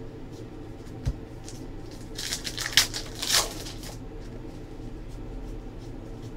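Trading cards and pack wrappers being handled: a soft knock about a second in, then a short stretch of rustling and flicking around the middle, over a steady low hum.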